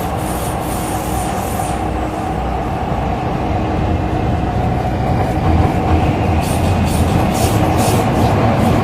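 Interior running noise of an MTR Tseung Kwan O line C-Train: a steady rumble of wheels on rail with a constant hum from the drive. A run of short hissing, clicking rail noises comes in near the end.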